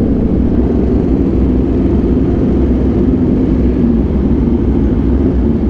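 Aprilia RSV4 1100 Factory's V4 engine with an SC Project exhaust running steadily at an even, low rumble.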